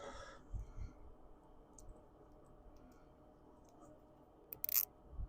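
Nylon zip ties being handled and fastened: scattered light clicks and handling knocks, with a short sharp rasp near the end.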